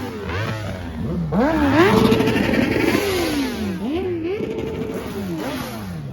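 A vehicle engine being revved hard several times, its pitch climbing quickly, holding high briefly, dropping and climbing again, then falling away near the end.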